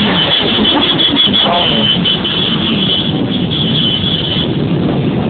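Motorcycle engines running and revving, their pitch rising and falling.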